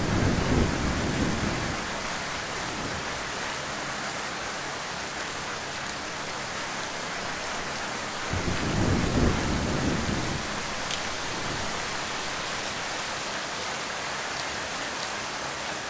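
Heavy rain falling steadily, with a low roll of thunder that fades over the first couple of seconds and another about halfway through.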